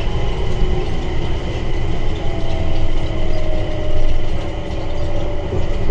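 Underground airport people-mover train running: a steady low rumble with a motor whine that slowly falls in pitch from about two seconds in, as the train slows.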